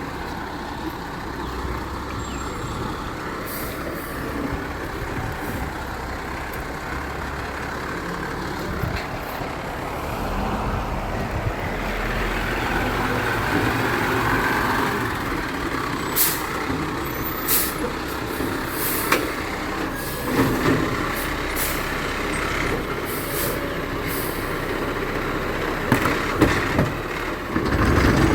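Garbage truck running, its engine rising in level about halfway through, with several short sharp noises in the second half.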